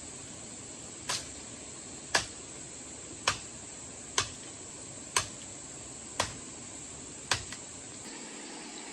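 Seven sharp knocks, about one a second, over a steady high-pitched insect drone.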